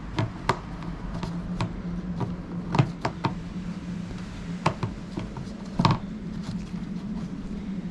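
Scattered clicks and light knocks of plastic parts as an LED headlight bulb and its cover are handled and fitted into a headlight housing, the loudest a knock about six seconds in. A steady low hum runs underneath.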